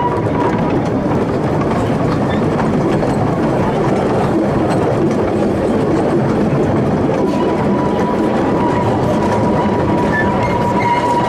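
Narrow-gauge train running, heard from one of its open four-wheeled passenger carriages: steady rumble and rattle of wheels and carriage over the track. A thin steady high tone drops out about a second in and returns about seven seconds in.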